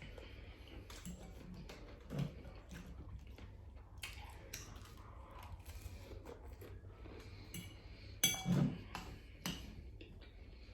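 A person eating pasta: fork or cutlery clinking and scraping on a plate, with chewing. Scattered small clicks, with a louder cluster of sounds about eight and a half seconds in.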